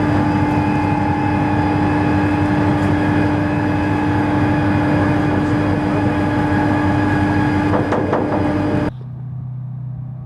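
A heavy engine running steadily under load, with a constant whine above its noise. About nine seconds in it cuts off abruptly to a quieter, lower engine drone.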